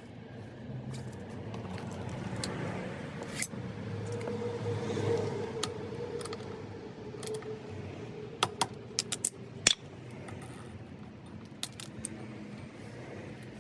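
Metal tools and scooter parts clinking and tapping during clutch work, with a quick cluster of sharp clicks about eight to ten seconds in, over a steady low background rumble.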